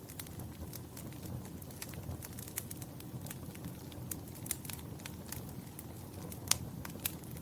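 Wood fire crackling in a fireplace: a steady low rumble of flames with scattered sharp pops and snaps, the loudest about six and a half seconds in.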